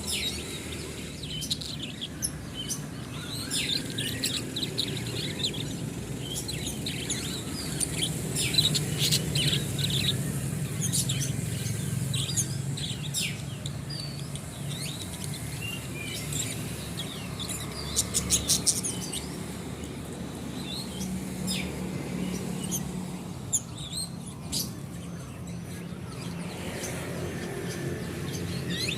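Several songbirds chirping and calling in short, scattered notes, with a quick run of ticking chirps a little past the middle.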